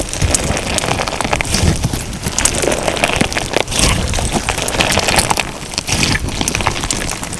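Crunchy slime filled with sugar beads being squeezed and pressed by hand, giving a dense, continuous crackling and popping of many small clicks.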